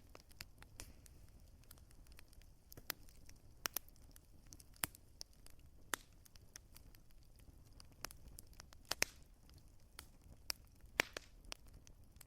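Wood fire crackling: irregular sharp pops and snaps, a few a second, with the loudest about nine and eleven seconds in, over a faint low steady sound of the burning fire.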